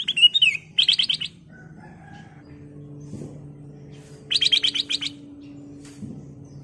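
Black-crested bulbul singing: a slurred whistled note, then a quick run of repeated bright notes about a second in, and a longer run of seven or eight notes past the four-second mark.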